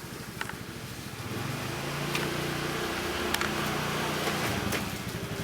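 Motorcycle engines idling in traffic with a low, steady pulse. A stronger engine hum rises about a second in and drops away near the end, and a few sharp clicks sound over it.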